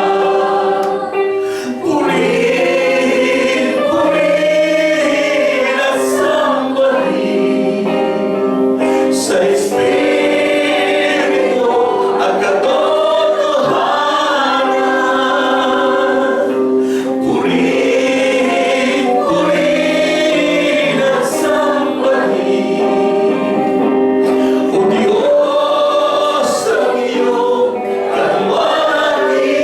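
A congregation singing a slow worship song together, with long held notes over instrumental accompaniment.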